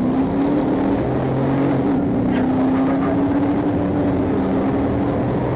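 Patrol car in high-speed pursuit: a steady engine hum with road and wind noise, holding a nearly constant pitch.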